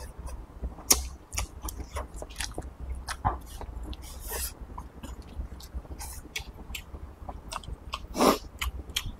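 Close-up chewing and mouth sounds of a man eating rice, with many short sharp clicks of wooden chopsticks against a porcelain bowl. A fuller, louder mouth sound comes about eight seconds in.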